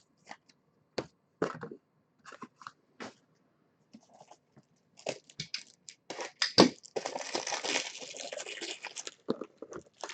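Trading cards being handled with scattered sharp taps, then a foil pack wrapper crinkling and tearing for a few seconds from about six seconds in.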